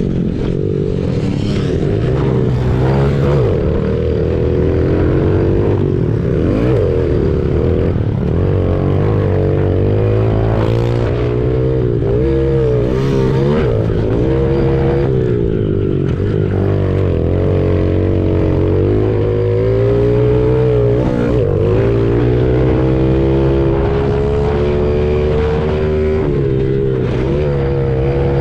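Honda CRF70's small single-cylinder four-stroke engine revving hard, its pitch repeatedly climbing and dropping as the throttle opens and closes, with scattered knocks and clatter from the bike over rough ground.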